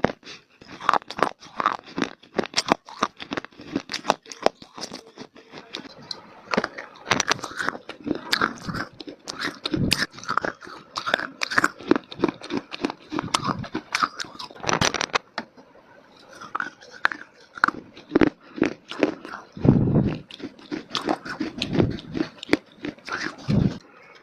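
Dry clay (mitti) being bitten and chewed close to the microphone: dense, irregular crisp crunches and crackles, with a few heavier, deeper crunches near the end.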